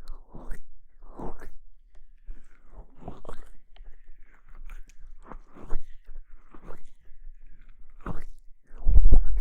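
Close-miked ASMR rustling and scratching on the microphone, in irregular short crunchy strokes, with a few heavy bumps against the mic near the end.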